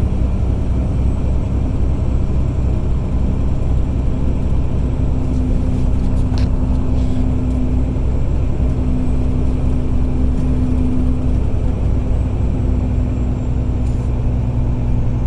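Tractor-trailer's diesel engine and road noise heard from inside the cab while climbing, a steady low drone whose note shifts lower near the end.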